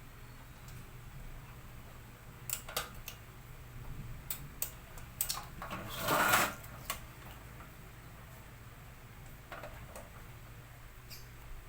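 A series of light clicks and taps of small hard parts being handled, with a louder scraping rustle about six seconds in, over a faint steady low hum.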